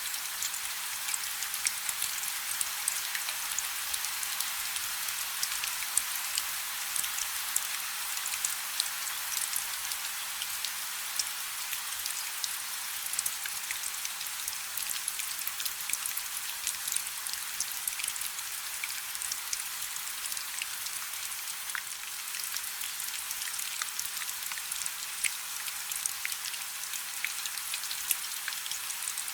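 Light rain falling steadily: an even hiss dotted with many small, sharp drop ticks.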